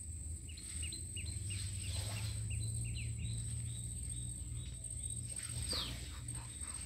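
A bird calling in a quick run of short, high chirps, about three a second, that stops about five seconds in. Under it runs a steady low hum and a thin, steady high tone.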